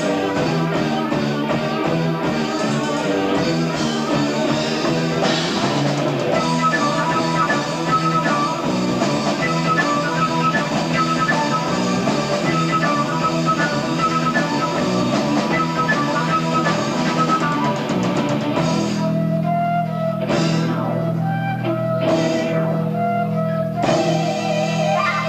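Progressive rock band playing live on an amateur concert recording, with electric guitar, bass, drums and keyboards. About eighteen seconds in, the full band drops away to sustained low keyboard chords under a wavering held melody line, with a few isolated hits.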